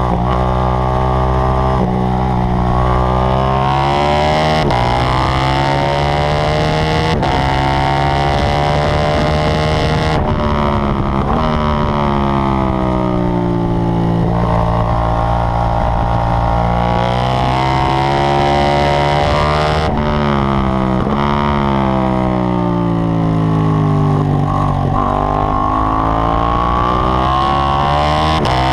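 KTM 790 Duke's parallel-twin engine at full track pace, its pitch climbing in long pulls, dropping suddenly at gear changes and falling away as the bike slows, over and over.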